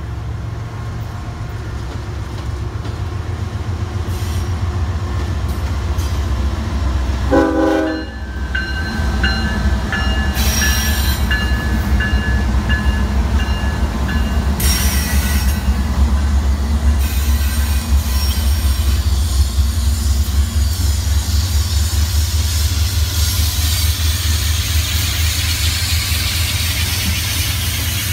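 Diesel locomotives of a freight train passing close by, their engines rumbling steadily and growing louder over the first seconds. A short horn note sounds about seven seconds in, and a steady hiss of wheels on rail builds over the last several seconds.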